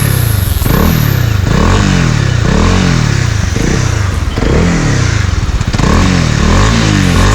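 Motorcycle engine running while riding, its pitch rising and falling about once a second, over the rush of wind and road noise.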